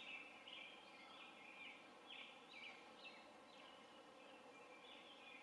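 Faint bird chirps, short sweeping notes repeated about twice a second, over a steady outdoor hiss.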